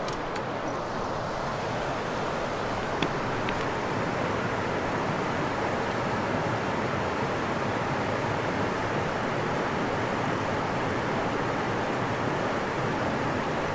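Steady rushing of river water, an even noise with no break, with a couple of faint clicks near the start.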